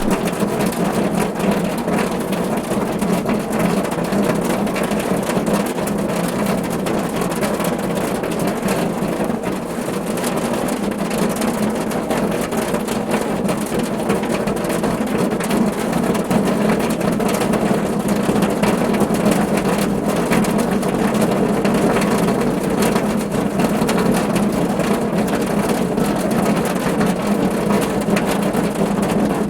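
Steady rain falling on a car roof, a dense patter of drops over a constant low rumble.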